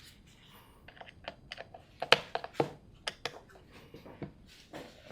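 Irregular light clicks and taps of small hard parts being handled, with a few sharper knocks around the middle.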